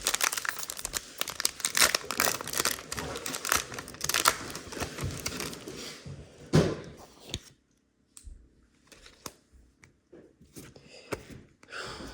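Foil Pokémon booster pack wrapper being torn open and crinkled: a dense crackle for about six seconds, then a few faint clicks and taps.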